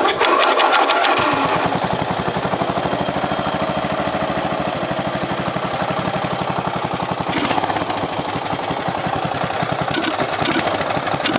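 A rebuilt Briggs & Stratton 12 hp engine catching at once on a cold start. It runs fast and busy for about a second, then settles into a steady run with even firing pulses.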